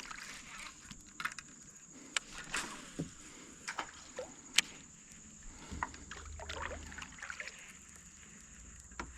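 Faint water sloshing around a kayak, with scattered small clicks and knocks.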